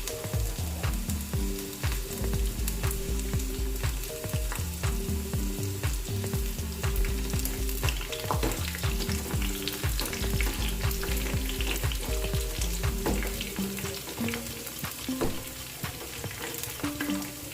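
Batter-coated chicken pieces deep-frying in hot oil, a steady sizzle dotted with many small crackles and pops. Soft background music plays along, its bass dropping away near the end.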